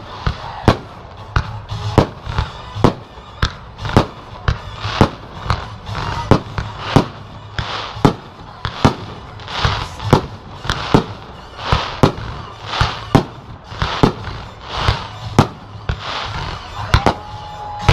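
Fireworks shells bursting in a rapid, steady barrage of about two bangs a second, with music playing underneath.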